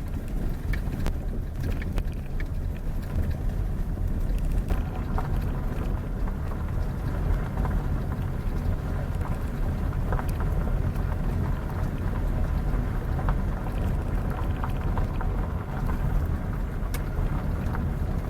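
Steady low rumble of a vehicle on the move, with road noise and a few faint clicks.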